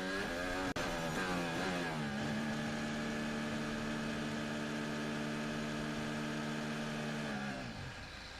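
Formula 1 car's 1.6-litre turbocharged V6 hybrid engine heard onboard. It revs up and down briefly, then holds one steady note for about five seconds, as on the pit-lane speed limiter while entering the pits. Near the end the revs fall away as the car slows.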